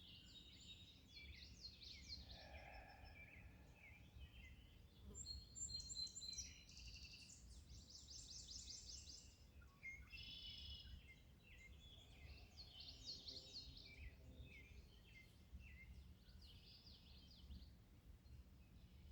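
Faint songbirds singing and chirping, several short trilled and warbling phrases overlapping, over a faint low background rumble.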